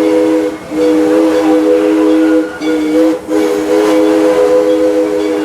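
Steam locomotive's chime whistle sounding a steady three-note chord in long blasts, broken briefly about half a second in and again around two and a half and three seconds.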